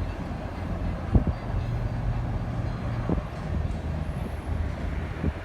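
Steady low rumble of a boat's motor, with a few short thumps from wind on the microphone.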